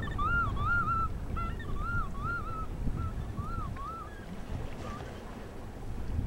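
A bird calling in a quick run of short calls, each rising and falling in pitch, about three a second, which stops about two-thirds of the way through. A steady low rumble runs underneath.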